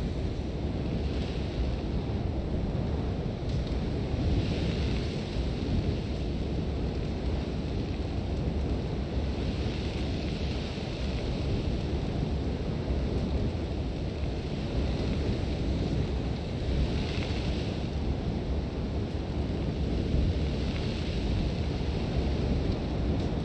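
Sandstorm wind: a constant deep rumble, with gusts of hissing, blowing sand that swell and fade every few seconds.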